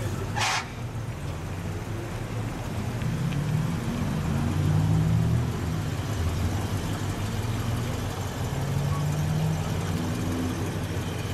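A large American car's engine running at low speed as the car rolls slowly past, with a low rumble that swells about four to five seconds in and again near nine seconds. A short hiss comes about half a second in.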